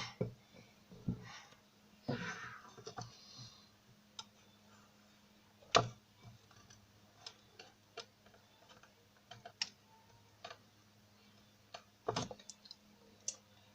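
Faint, scattered light clicks and taps of a spoon and biscuits being handled while chocolate spread is put on biscuits, with a short scraping sound about two seconds in.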